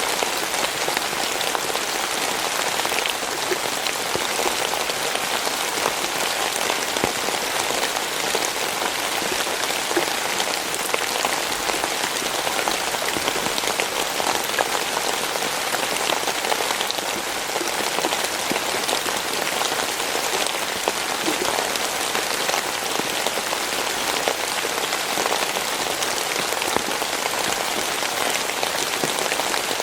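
Steady rain falling and pattering on a surface, a dense even hiss of many small drop impacts.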